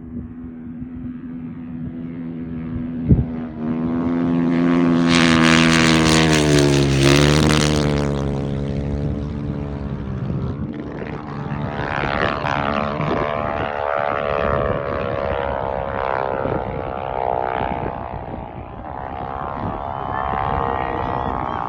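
Husqvarna motorcycle engine held at full throttle while climbing, its pitch rising and dipping as the revs change. It is loudest from about four to eight seconds in, and there is a sharp knock about three seconds in.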